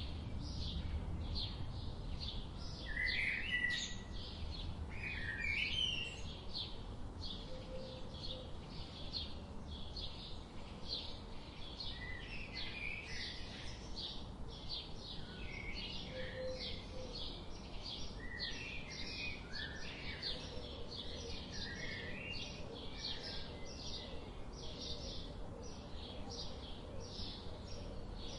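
Wild birds singing: one bird repeats a short high chirp about two or three times a second throughout, while others add warbled phrases now and then, over a low steady rumble.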